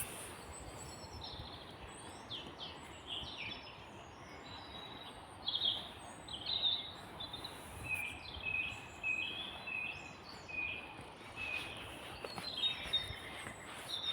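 Small woodland songbirds singing and calling, with many short high chirps and trills over a steady background hiss; around the middle one bird gives a run of about six short, even notes.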